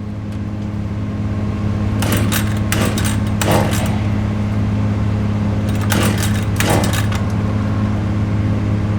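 An engine running steadily and growing slowly louder, with short rasping strokes in two clusters, about two to three seconds in and again around six seconds in.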